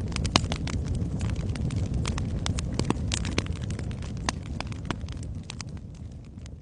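Wood fire in a fireplace crackling, with sharp irregular pops and snaps over the low rumble of the flames, fading out near the end.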